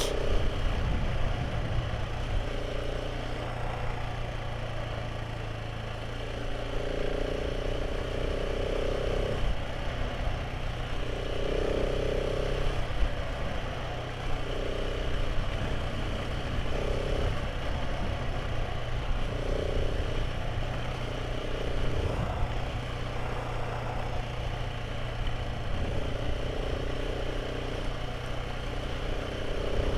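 Motorcycle engine running steadily while riding, with strong wind buffeting the microphone. A higher hum comes and goes every few seconds.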